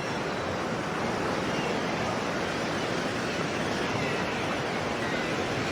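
Sea waves: a steady, even wash of surf.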